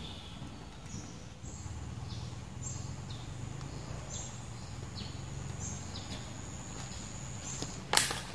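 Riverside bird calls: short high chirps repeating about once a second over a steady low hum. A sharp knock near the end is the loudest sound.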